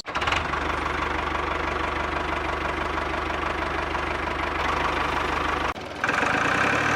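A motor running steadily with a fast rattling texture; it cuts out briefly just before six seconds and starts again.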